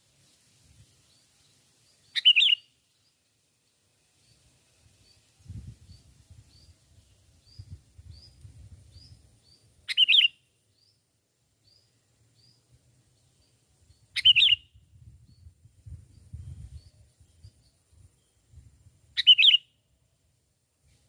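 Songbird calls: a loud short call four times, several seconds apart, over a faint series of high chirps about twice a second. Low rumbling in between.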